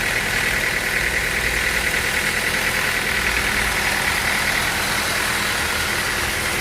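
Sawmill machinery running steadily: a constant motor hum with a steady high whine and no change in pitch or load.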